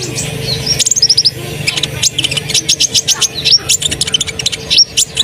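Olive-backed sunbird (kolibri ninja) singing hard: a fast, unbroken run of high, sharp chirps and trills. A steady low hum sits underneath.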